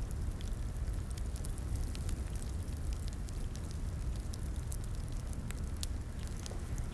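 Crackling fireplace: a wood fire burning with a steady low rumble and frequent sharp, irregular pops and crackles.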